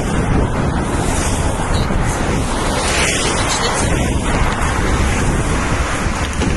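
Loud, steady wind buffeting the microphone, with an uneven low rumble and a hiss across the whole range.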